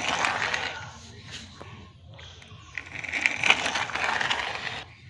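Plastic wheels of a toy microbus rolling and scraping over a concrete wall as it is pushed by hand, in two stretches: one at the start and a longer one from about three seconds in.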